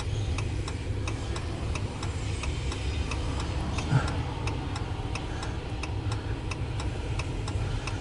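A steady low rumble with a regular, rapid ticking, several ticks a second, and a single knock about four seconds in.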